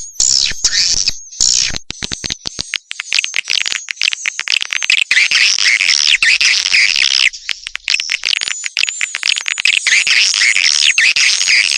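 Recorded swiftlet calls: a dense, continuous chatter of many overlapping high chirps and twitters laced with rapid clicks. It is a call track of the kind played from swiftlet houses to lure wild swiftlets in to roost and nest.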